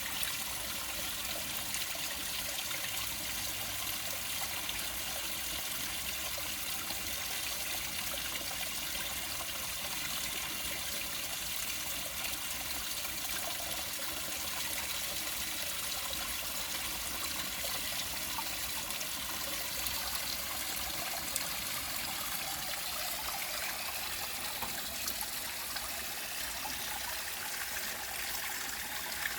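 Small waterfall trickling and splashing steadily into a fish pond.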